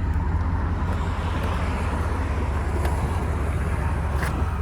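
Steady low rumble of a vehicle's engine and road noise heard from inside the cab while driving, with a couple of faint clicks.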